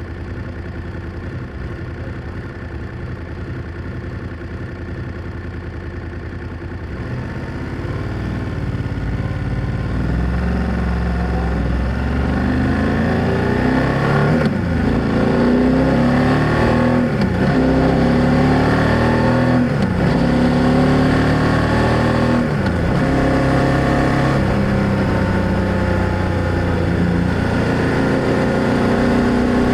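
BMW F800GS parallel-twin engine pulling away from low revs and accelerating through the gears, the exhaust note climbing in pitch and dropping back at each of about four upshifts, then settling into a steady cruise.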